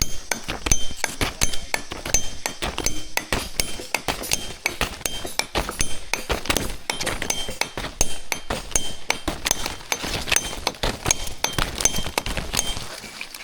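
A dense, irregular run of sharp clinks and knocks, with brief metallic ringing tones among them, dying away at the end.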